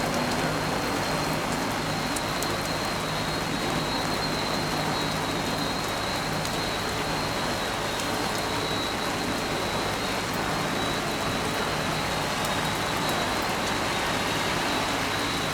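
Steady hiss and patter of water spraying and falling at a fire scene, with a thin steady high whine throughout.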